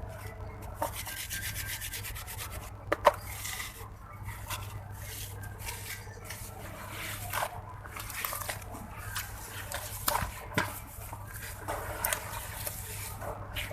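Grainy red sand-cement block being crumbled and rubbed by hand: a continuous gritty scraping, broken by sharp little cracks and snaps, the loudest about three seconds in and another pair around ten seconds.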